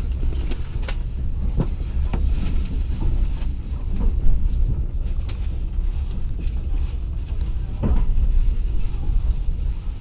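Passenger train carriage running along the track: a steady low rumble, with the wheels knocking sharply over rail joints a few times at uneven intervals.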